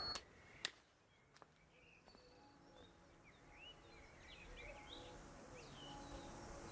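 Faint birdsong, scattered short chirps that begin about two seconds in, preceded by a sharp click about half a second in.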